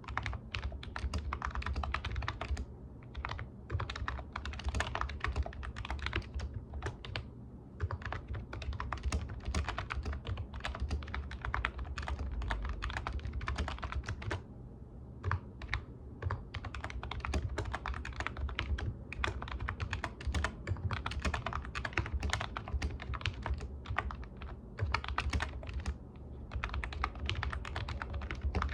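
Typing on a computer keyboard: rapid key clicks in bursts, with brief pauses between them, over a steady low hum.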